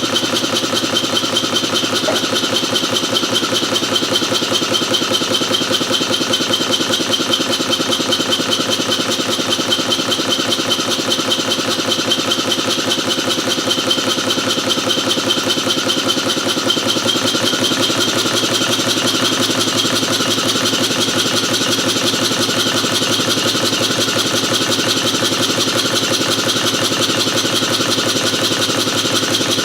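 Stuart No. 1 model steam engine, a single-cylinder double-acting engine, running fast and steady, its exhaust beats and clatter coming in a rapid, even rhythm.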